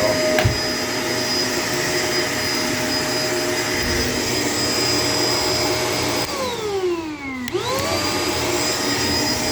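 Shark LA702 Lift-Away upright vacuum running steadily with a whine, with a click about half a second in. About six seconds in, the motor winds down in pitch for about a second, then spins straight back up to full speed.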